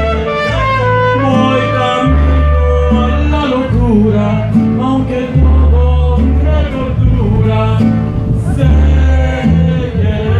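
A mariachi band playing live, with violins, trumpets and guitars over strong low bass notes that change about once a second.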